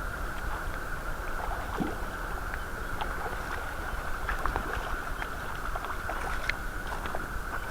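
Creek water running steadily, with a low rumble of wind on the microphone and a scattering of faint ticks.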